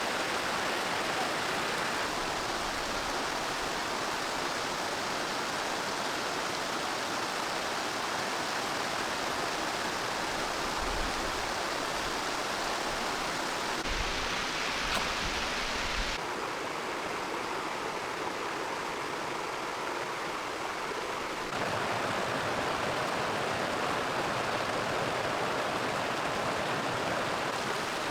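Steady rushing water noise, which shifts abruptly in tone a few times.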